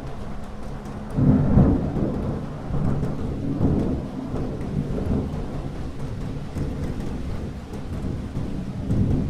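Thunder rumbling over steady rain. A low roll swells up suddenly about a second in, rumbles on in waves, and swells again near the end.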